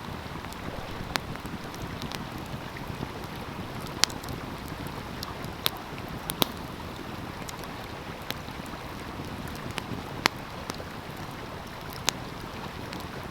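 Wood fire crackling, with sharp scattered pops every second or two, over the steady rush of a flowing stream.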